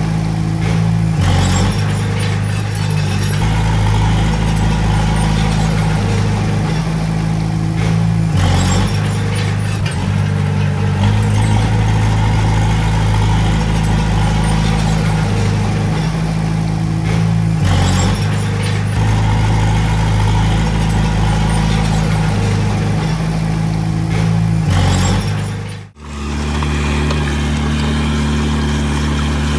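Heavy-equipment diesel engine running under working load, its low drone shifting in pitch several times. About 26 seconds in, the sound drops out abruptly and a different, steadier engine drone takes over.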